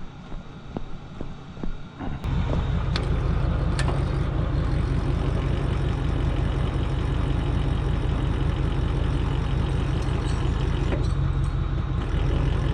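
A few knocks and clicks, then about two seconds in a truck's engine comes in suddenly and runs steadily and loudly with a low drone.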